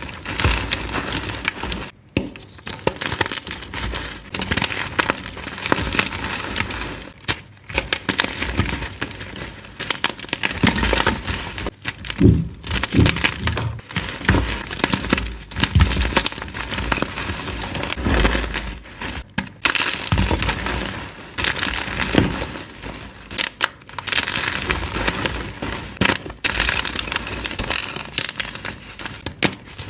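Blocks of dyed, reformed gym chalk being crushed and crumbled, a dense continuous crunching broken by a few short pauses.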